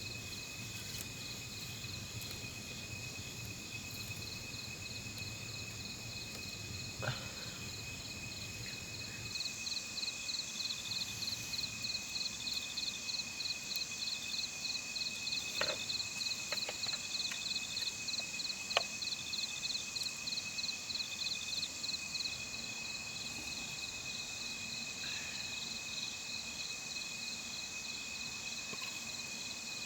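Insects calling in the forest: a steady high-pitched trill throughout, joined from about ten seconds in until past twenty seconds by a faster, louder pulsing chirp. A few faint clicks are scattered through it.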